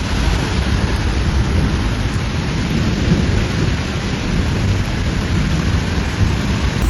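Heavy rain pouring down steadily during a thunderstorm, a loud even rush with a strong low rumble beneath it.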